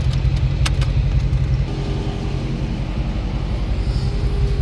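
The 392 (6.4-litre HEMI) V8 idling with a steady low rumble. A few light clicks come in the first second.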